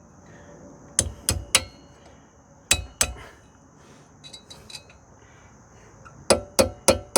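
Hammer tapping on metal, working a cotter pin into place: sharp ringing metallic taps, three in quick succession about a second in, two more near three seconds, and a quick run of four more near the end.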